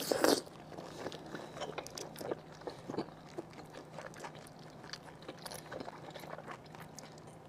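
Close-miked eating of braised offal in a sticky spicy sauce: a loud bite right at the start, then steady wet chewing with many small clicks and crunches.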